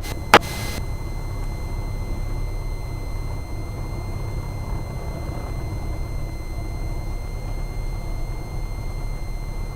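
Cessna 172R's Lycoming IO-360 four-cylinder engine running at low power on the ground, a steady low drone with a faint steady high whine over it. A single sharp click about a third of a second in.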